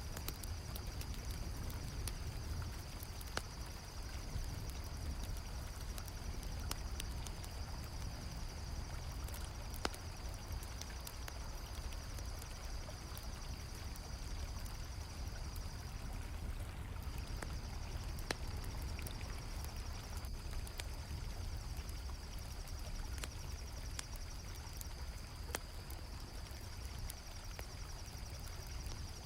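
Crickets chirping in a steady high trill that drops out briefly about two-thirds of the way through, over the continuous flow of river water, with scattered sharp crackles from a campfire.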